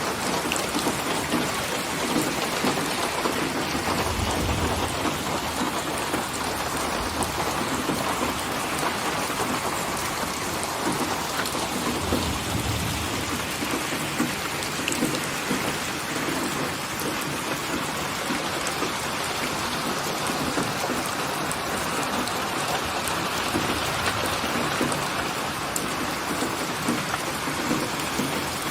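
Steady rain pouring, with distant thunder rumbling low twice, about four seconds in and again around twelve seconds.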